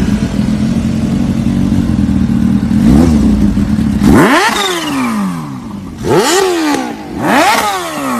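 Motorcycle engine running at a steady speed, then revved sharply three times, the pitch shooting up and falling back after each blip of the throttle.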